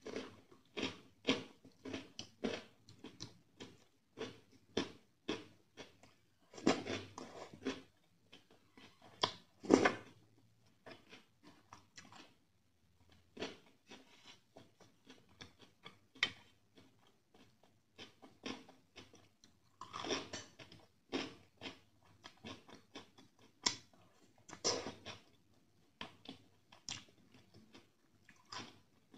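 Close-up chewing of a mouthful of rice and chicken curry: wet chewing strokes, about two a second at first, with louder bites now and then.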